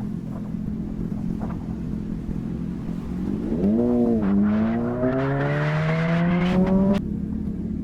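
Motorcycle engine running at a steady low note, then a quick blip of the throttle up and down, then pulling away with its pitch climbing steadily under acceleration as rushing noise builds. The rising note cuts off abruptly near the end, dropping back to a low steady hum.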